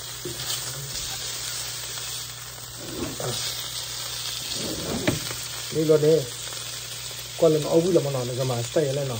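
Turkey leg frying in a hot pan: a steady sizzle. A man's voice briefly breaks in about two-thirds of the way through and again near the end.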